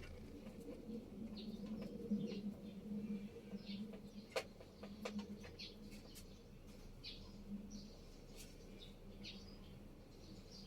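Faint, short, high chirps, bird-like, repeating irregularly over a low steady hum, with a few sharp clicks around the middle.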